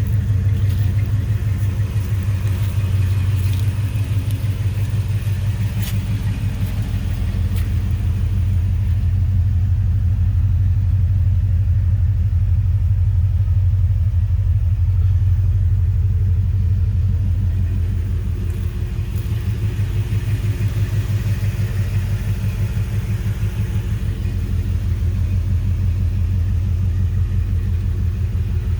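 1972 Chevrolet C10's 406 cubic-inch V8 running steadily, its exhaust pulsing at a low, even beat with small swells in level.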